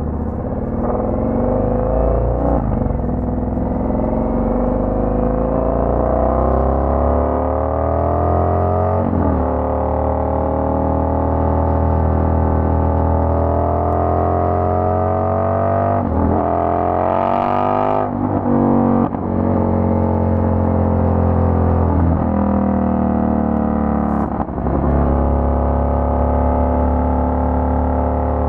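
Indian FTR 1200's V-twin through a Toce aftermarket exhaust, pulling under load. Its pitch climbs steadily, then drops sharply at each of several upshifts as the bike works up through the gears.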